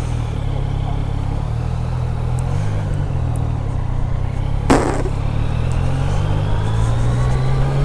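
Yamaha Niken's three-cylinder engine running steadily at low revs through its stock exhaust, the pitch shifting a little as it rolls in traffic. A sharp click cuts in once, a little past halfway.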